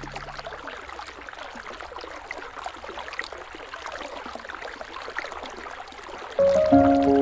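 River water flowing: an even rush with many small splashes and trickles. Music with held notes comes in suddenly near the end, louder than the water.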